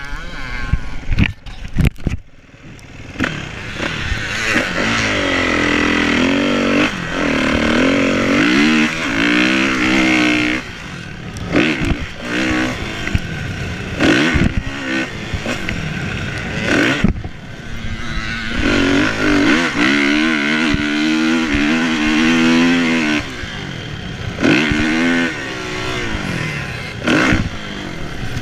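Kawasaki KX450F four-stroke single-cylinder motocross engine under hard throttle, its pitch repeatedly climbing and falling as the rider accelerates, shifts and backs off. A few sharp knocks come in the first couple of seconds.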